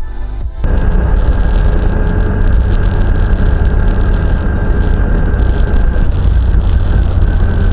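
Loud, steady rumble of road and engine noise from a moving car, picked up by a dashcam, starting abruptly about half a second in after a moment of music. A faint steady whine runs through it.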